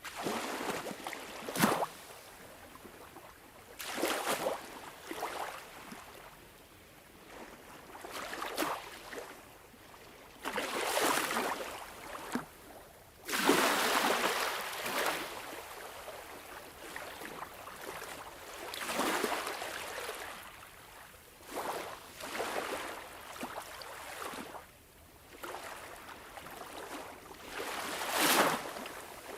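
Sea water lapping and splashing in irregular surges, each wash rising and falling over a second or two, with a longer, louder wash about halfway through and a few sharper splashes.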